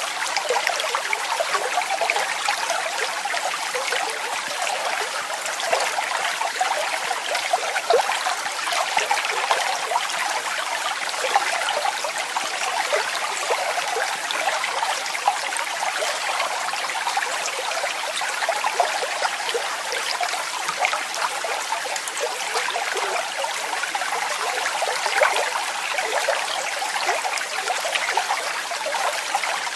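Falling and running water, a steady splashing rush with fine crackle that never lets up.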